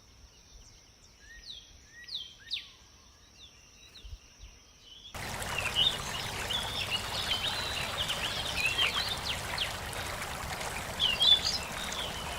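Birds chirping in short falling calls over a steady high tone. About five seconds in it cuts abruptly to the louder rush of running water, with many birds chirping over it.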